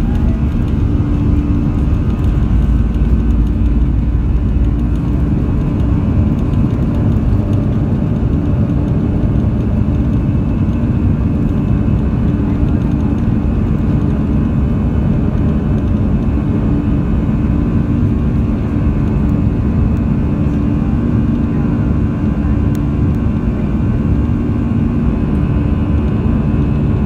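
Steady cabin noise inside an Airbus A340-300 airliner: a constant, loud rumble of engines and airflow with a steady low hum running through it.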